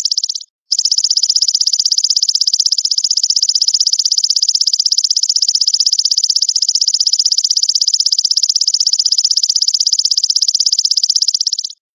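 Belalang mas grasshopper stridulating: a continuous, fast-pulsing, high-pitched buzz that cuts out briefly about half a second in and again near the end, where the looped recording restarts.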